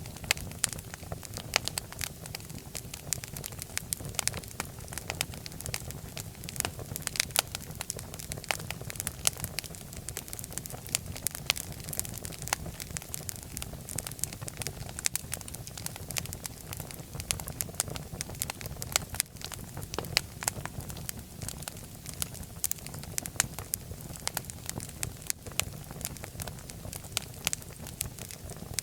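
Fireplace fire burning, with irregular sharp crackles and pops over a steady low rush of flame.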